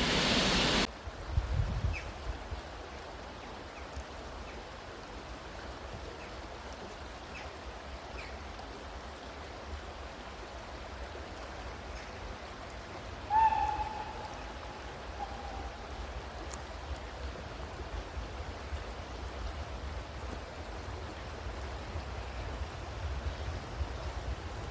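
Low wind rumble on the microphone, with a loud rushing noise that cuts off abruptly under a second in. About halfway through, one short, slightly falling whistle from a distant steam locomotive.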